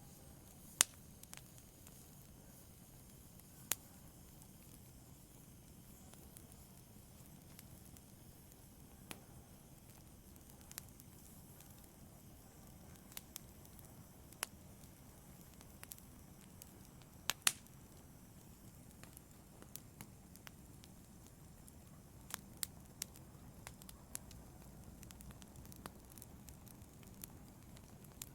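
Wood fire in a fireplace crackling: sharp pops and snaps at irregular intervals over a soft, steady hiss.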